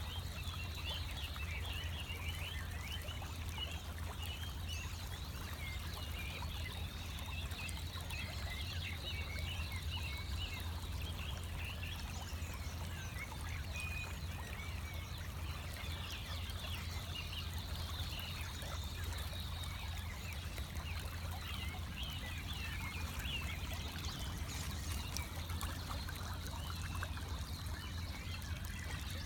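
A pre-dawn chorus of many small birds, with short quick chirps and twitters overlapping throughout, over a steady low rumble.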